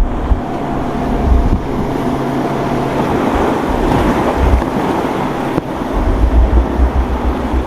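Motorboat engines running under a steady rush of surf and waves, with wind buffeting the microphone. The buffeting is heaviest in the last couple of seconds.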